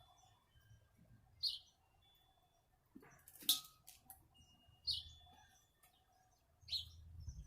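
A small bird chirping three times, short high calls a couple of seconds apart, with one sharp click about halfway through.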